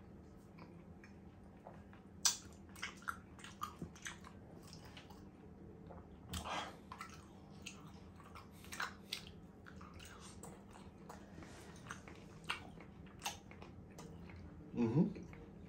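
Close-miked chewing of sirloin steak and mashed potato, with many short wet clicks and smacks of the mouth, and a brief hum near the end.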